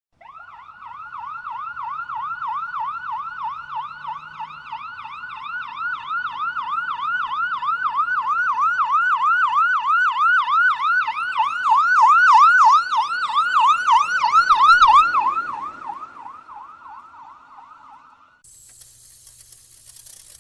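Police siren in yelp mode: rapid rising and falling wails, about three a second. It grows louder, peaks, then fades away a couple of seconds before the end.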